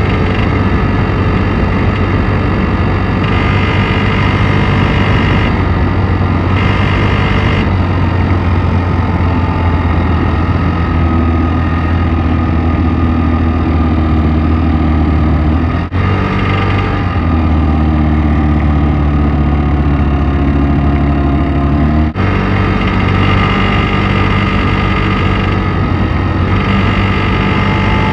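Piaggio X9 500 scooter engine idling steadily. This is the engine noise that the owner puts down to the timing chain and its tensioner. The tone shifts in the middle, and the sound drops out for an instant twice.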